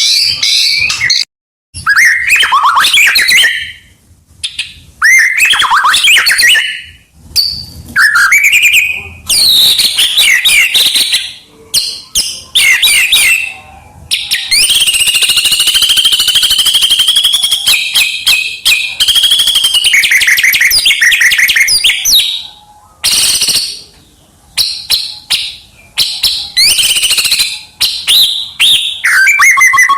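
White-rumped shama (murai batu) singing loudly in a run of varied whistled and chattering phrases with short pauses between them, including a long rasping trill about halfway through.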